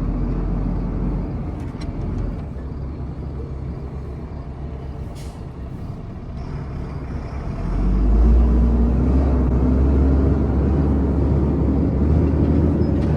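A vehicle engine running steadily, then getting louder and rising in pitch about eight seconds in as it takes on more throttle.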